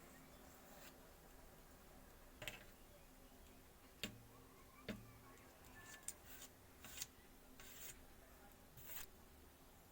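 Near silence with a handful of faint, scattered clicks and light rubbing sounds, irregularly spaced.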